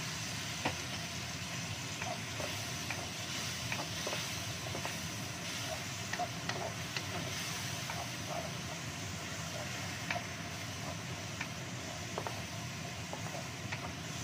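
Chilli spice paste sizzling as it is sautéed in a wok and stirred with a wooden spatula, over a steady hiss, with scattered light knocks and scrapes of the spatula against the pan.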